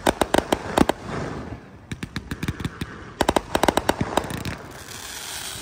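Consumer fireworks being set off on the beach: rapid strings of sharp pops and cracks in several clusters, the densest in the first second and again in the middle.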